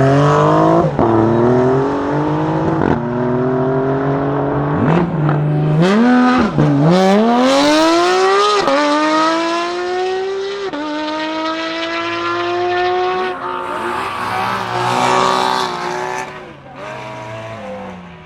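Supercar engine accelerating hard, its pitch climbing and dropping back sharply at each of several quick upshifts. The sound fades near the end as the car pulls away.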